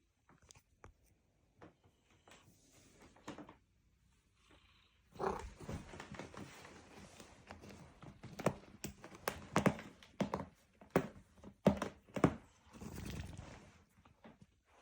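Cat clawing and scratching at a chair: a few faint scrapes at first, then from about five seconds in a busy run of scratchy strokes and sharp knocks.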